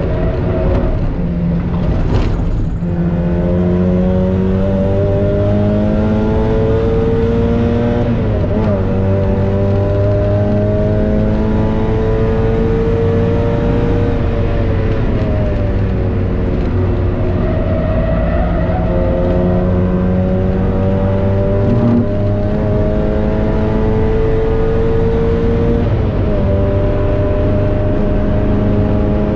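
Mazda MX-5 NB's 1.8-litre four-cylinder engine heard from inside the cabin at full load on track. Its pitch falls as the car slows at first, then climbs steadily with speed, drops once in the middle as the driver lifts, and climbs again, over constant road and wind noise. There is a brief sharp knock about two and a half seconds in.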